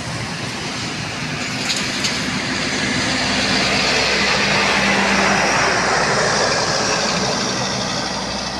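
A train passing close by. The rumble and rush of the wheels swells to its loudest about halfway through, then eases off, with a few sharp clicks about two seconds in.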